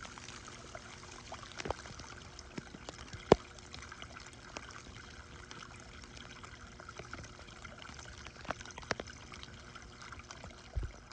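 Water trickling steadily, with scattered small clicks and one sharp click about three seconds in.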